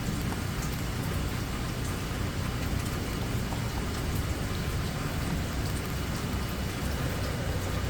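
Steady rainfall, with scattered drops ticking close by and a low rumble underneath.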